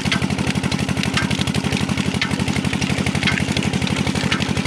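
Engine driving a sugarcane crusher (belna), running at a steady, fast, even chug, with a light click about once a second.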